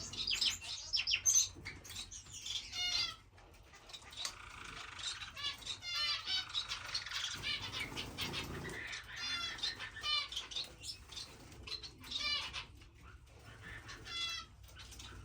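Small cage finches calling, with runs of quick chirps falling in pitch every few seconds, over wings fluttering as the birds bathe.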